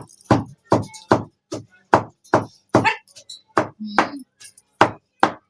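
A steady run of sharp knocks, about two and a half a second, each short and hard like something struck repeatedly on a hard surface.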